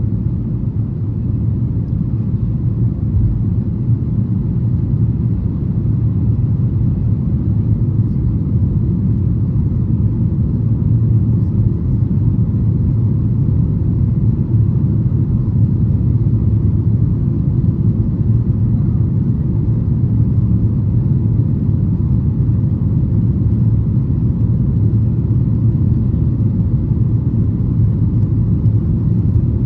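Boeing 737-800 cabin noise during the climb after takeoff: the CFM56-7B engines and airflow make a steady, deep rumble heard from inside the cabin.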